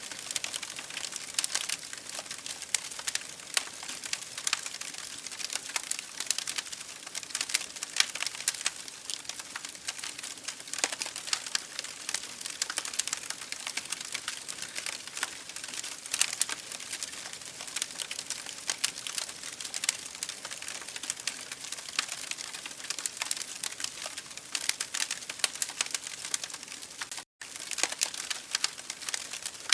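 Wood fire in an open fireplace crackling, with dense, irregular pops and snaps over a steady hiss. The sound cuts out for a split second near the end.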